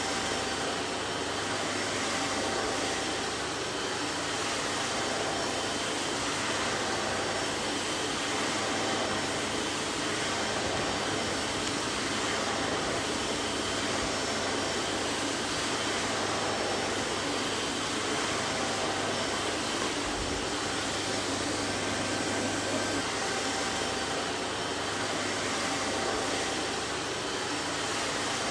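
Vacuum cleaner running steadily: an even rushing hiss of air with a faint motor hum underneath.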